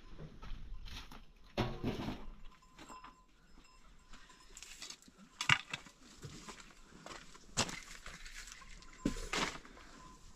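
Livestock bleating a few times, with scattered knocks and rustles between the calls.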